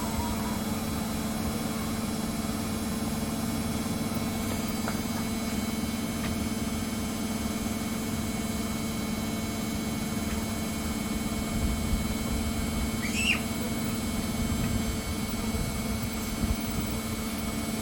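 Samsung EcoBubble washing machine running steadily with a constant hum, with one brief high chirp about three-quarters of the way through.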